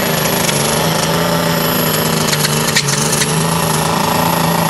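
John Deere super stock pulling tractor's diesel engine running hard at high, steady revs under load during a pull, with sharp crackles over the engine note.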